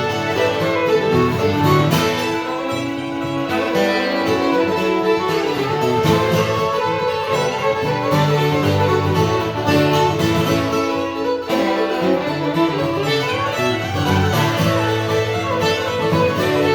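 Old-time string band music: a fiddle plays a fiddle tune over guitar backing, at a steady, lively pace.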